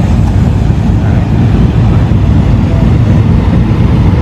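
A car engine running close by: a loud, steady low rumble with no change in pitch.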